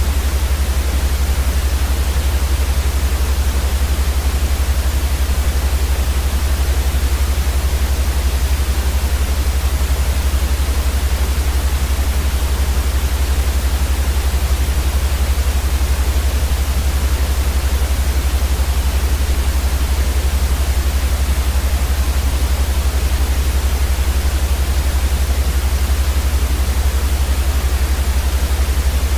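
Steady electronic white noise sleep sound: an even, unchanging hiss across the whole range over a strong low rumble.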